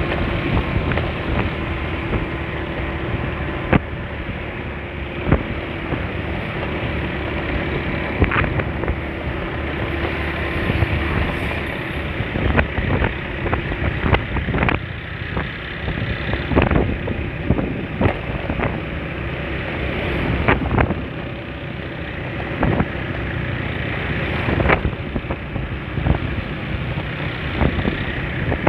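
Honda Spacy scooter being ridden on the road: steady engine and road noise mixed with wind on the microphone, broken by scattered sharp knocks.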